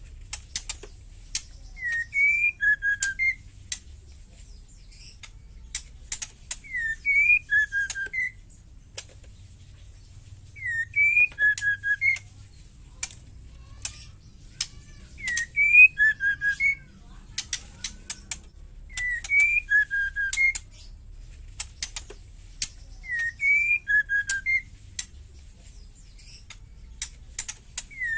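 Female white-rumped shama calling: a short whistled phrase of a few notes, repeated about every four seconds, with dry ticking rattle calls between the phrases.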